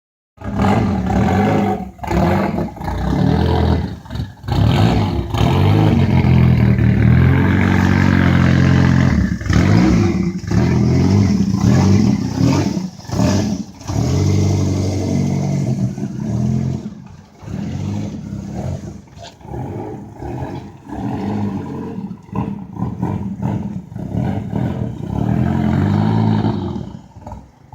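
Race car engine revving hard in repeated throttle blips, dropping and rising again several times. About halfway through it settles to a lower, quieter running with lighter throttle stabs.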